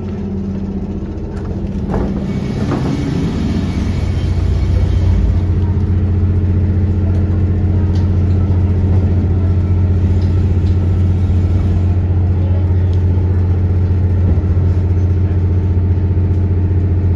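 Diesel engine of a JR Kyushu KiHa 183-1000 series railcar heard from inside the passenger car, running with a steady deep hum that grows louder over the first few seconds and then holds. Its rattling (gara-gara) note is taken by the rider for a fault or age-related wear.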